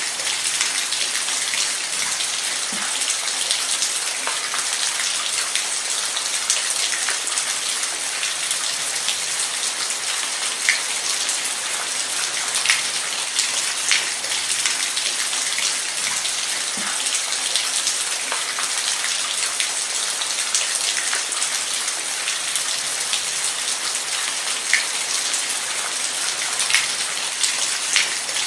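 Steady rain falling on a surface, an even hiss with scattered louder individual drops and drips.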